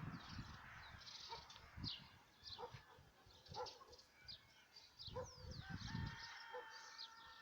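Birds calling: many quick, high chirps with a held whistled note near the end, over a few dull low thumps.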